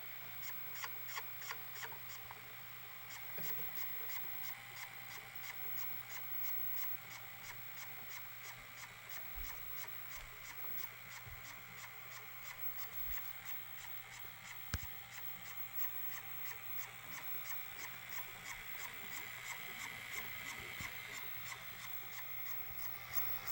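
Sony SLV-575UC VHS VCR mechanism running: a steady hum under a light, regular ticking a few times a second, with one sharp click about 15 seconds in.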